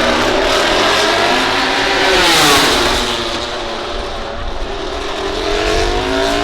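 MotoGP racing motorcycles' four-cylinder engines at high revs: one bike passes at speed about two and a half seconds in, its pitch falling as it goes by, then an engine climbs in pitch as it accelerates near the end.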